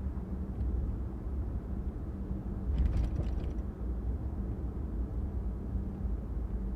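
Car driving: a steady low rumble of engine and road, with a brief cluster of clicks and rattles about three seconds in.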